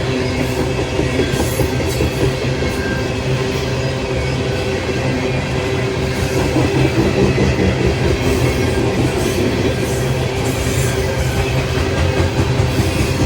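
A train passing, its railcars rolling steadily along the track.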